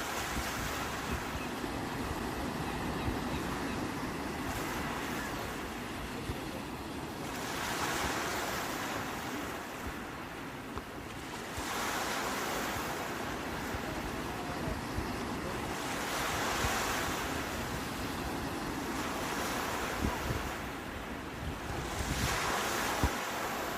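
Sea waves breaking and washing on the shore, swelling every four seconds or so, with wind buffeting the microphone.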